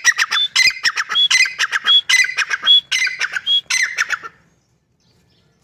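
Grey francolin calling: a loud, harsh phrase repeated quickly about five times, each with a short high whistled note, stopping about four seconds in.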